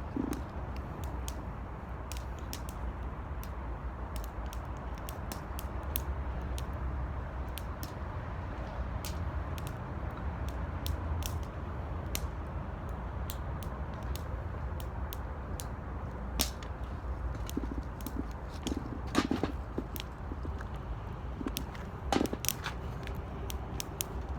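Wood fire crackling in an 18-litre steel can: a steady scatter of sharp snaps and ticks over a low rumble, with a few louder pops in the last third.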